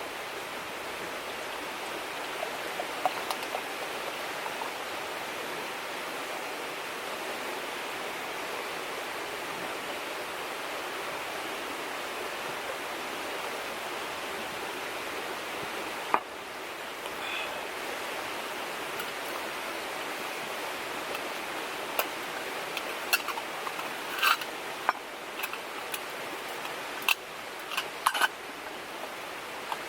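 River water flowing steadily, with a string of sharp clicks and light knocks in the last third.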